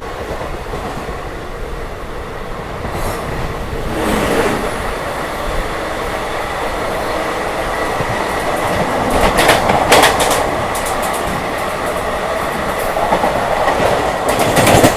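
An express train passing close alongside on the next track, its coaches rushing by over the steady running noise of the train being ridden. It swells with bursts of rapid wheel clatter over rail joints about nine seconds in and again near the end.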